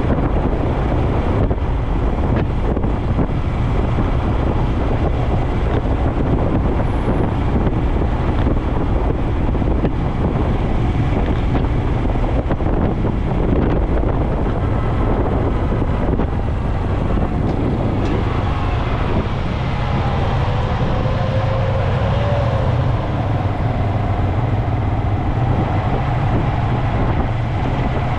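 Honda Dax 125's air-cooled single-cylinder engine running steadily through a Takegawa normal-look sport muffler.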